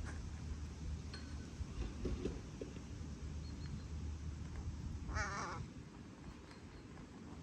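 A crow gives one short, harsh call about five seconds in, over a low background rumble.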